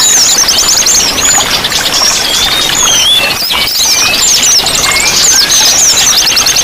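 A dense chorus of many songbirds chirping, whistling and trilling at once over steady running water, with rapid repeated trills near the end.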